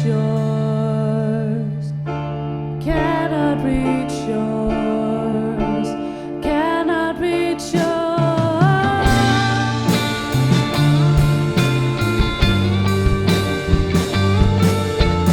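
Live rock band playing an instrumental section: a held low bass note under a gliding, wavering lead melody, then drums and a moving bass line come in about eight seconds in and the band plays on at full strength.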